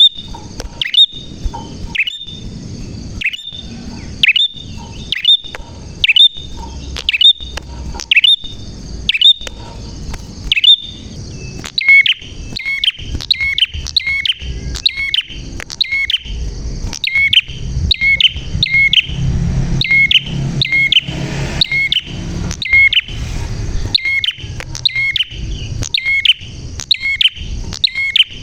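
Prinia (prenjak) singing: a long series of sharp, downward-sliding chirps. They come about once a second at first, then quicken to a rapid run of two or three a second from about twelve seconds in.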